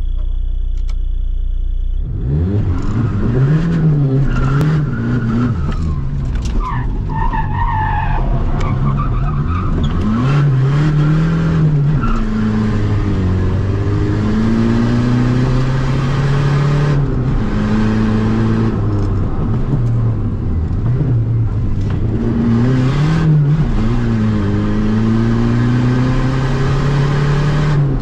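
VW Golf TDI's four-cylinder turbodiesel heard from inside the cabin, idling at the start and then pulling away hard about two seconds in. The revs then climb and drop again and again through gear changes and corners under racing throttle, with a brief tyre squeal around seven to nine seconds in.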